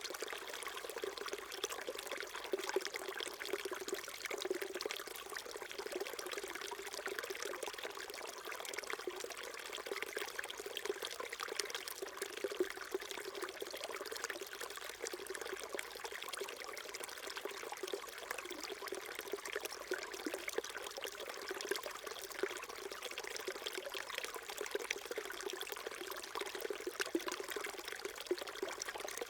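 Small mountain stream flowing and trickling over rocks, a steady babble of water with constant small splashes.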